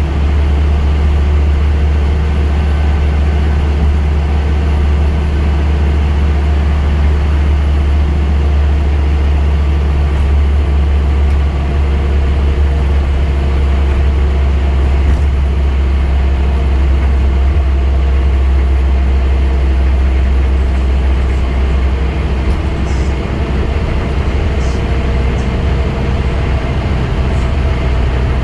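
Scania N230UD double-decker bus's five-cylinder diesel engine running with a steady low drone and a faint whine on top.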